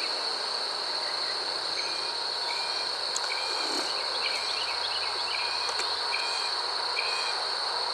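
Honeybees buzzing in a steady hum around a freshly split, queenless colony; the beekeeper takes the loudness for a sign that the bees know they have lost their queen. A steady high whine and short repeated high chirps run over it.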